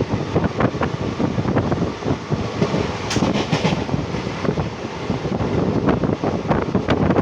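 Passenger train under way: steady rumble with rapid clatter of wheels on the rails, and wind buffeting the microphone.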